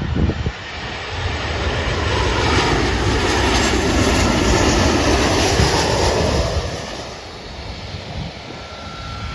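Boeing 737-700 jet passing, the noise of its CFM56 turbofans swelling over a couple of seconds, loudest around the middle, then fading away.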